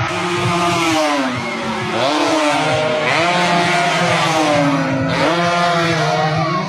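A motor vehicle engine revving hard several times: each time its pitch climbs quickly, then sinks back, over a steady low drone.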